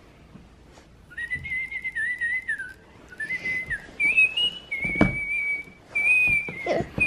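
Battery-powered talking toy bird tweeting: a string of thin electronic whistles that stay close to one pitch and waver slightly, starting about a second in. A sharp knock sounds about five seconds in.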